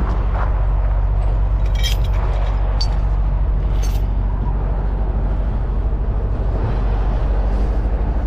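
Heavy diesel truck engine running steadily with a low, pulsing hum, with a few short high-pitched noises about two, three and four seconds in.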